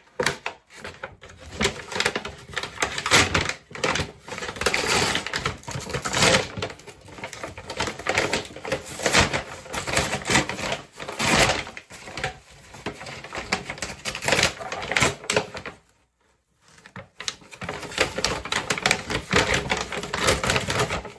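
Packaging being torn open and handled as a package is unwrapped, a dense run of crinkling and ripping. It stops briefly about three-quarters of the way through, then goes on.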